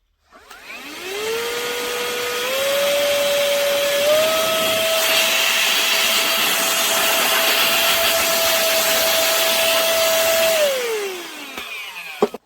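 Tiazhan handheld vacuum-blower's small electric motor spinning up with a high whine and rushing air, stepping up in pitch twice as it is switched through its power settings, running steadily, then winding down when switched off. A click near the end.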